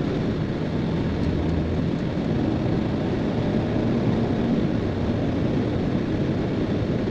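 Steady road and wind noise inside a car cruising at motorway speed, around 120 km/h.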